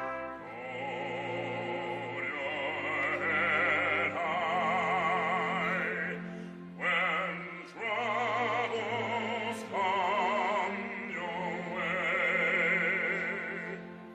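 Operatic solo singing with a wide vibrato: several long held phrases with short breaths between, over a steady low instrumental accompaniment.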